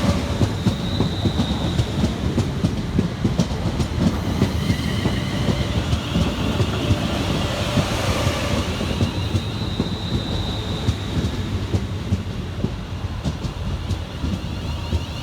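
A pair of Class 350 Desiro electric multiple units pulling into the station: a steady rail rumble with repeated clicks of wheels over joints and points. High-pitched whines come and go over the top.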